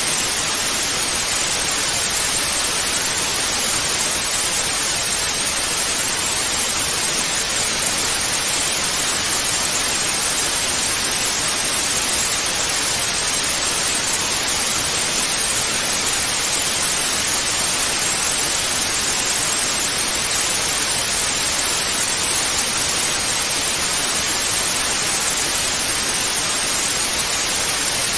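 Television static: a steady, even hiss with no breaks or changes.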